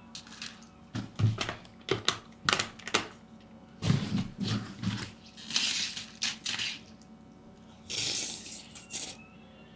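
Close-up crunching and chewing of cereal in a mukbang: a run of short crackly crunches, with two brief hissy, wet bursts in the second half.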